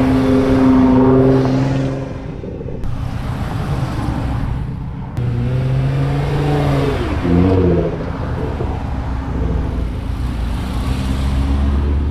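Car engines running in a queue, with a steady low rumble. One engine revs, rising and then falling in pitch, about six to seven seconds in.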